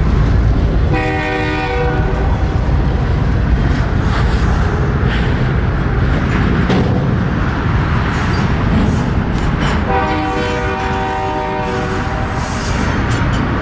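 Diesel freight locomotive's air horn sounding two blasts, a short one about a second in and a longer one near the end, over the steady low rumble of the moving train.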